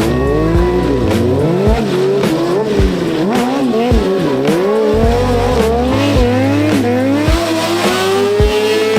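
Sport motorcycle engine revving hard, its pitch swinging up and down with quick throttle blips, then climbing steadily through the gears in the last few seconds. Music with a heavy bass line and a regular beat plays underneath.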